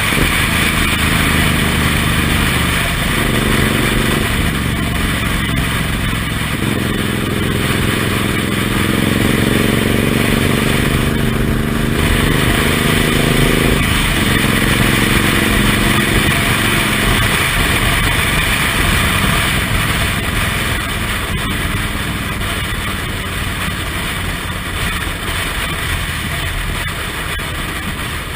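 Suzuki Intruder M1800R's big V-twin engine under way, its note climbing steadily for several seconds in the middle, then easing off, with steps up in pitch before that. Heavy wind rush over the microphone throughout.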